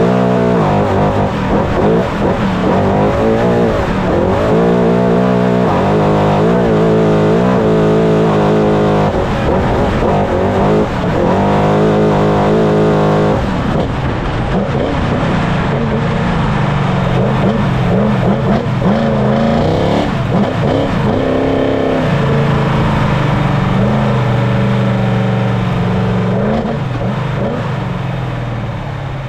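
Trophy Truck's V8 race engine at full pace, its pitch holding, then rising and falling again and again as it revs and lifts, fading out near the end.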